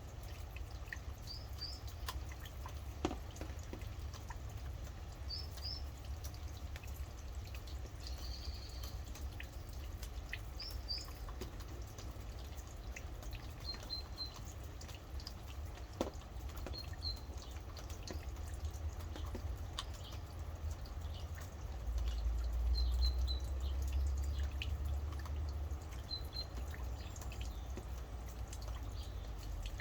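Rain dripping with scattered sharp drops, while a small bird repeats short, high two-note chirps every couple of seconds. A low rumble runs underneath and swells for a few seconds about three-quarters of the way through.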